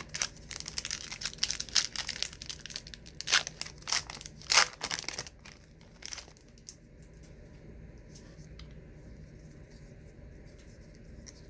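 A 1990s wax-paper trading card pack being torn open and crinkled by hand, a burst of tearing and crackling that lasts about five seconds.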